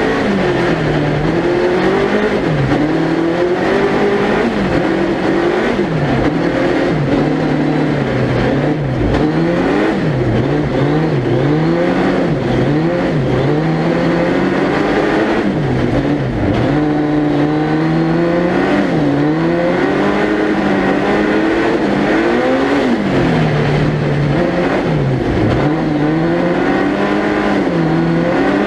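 Suzuki Hayabusa 1300cc inline-four motorcycle engine in a four-wheel-drive tubular-chassis ice-racing prototype, revving hard and repeatedly. Its pitch climbs and drops sharply every couple of seconds as the driver lifts and gets back on the throttle through the corners, heard onboard.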